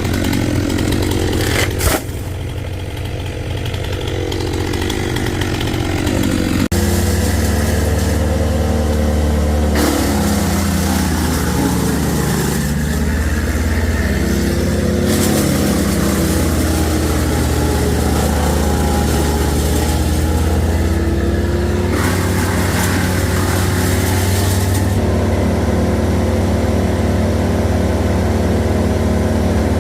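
Chainsaw engine running, with a sharp knock about two seconds in. About seven seconds in, the sound changes abruptly to a steadier engine drone whose pitch wavers slowly.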